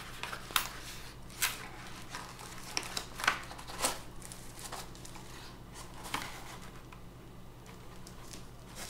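Product packaging being opened by hand: crinkling and scattered clicks from the box and its wrapping, thinning out toward the end.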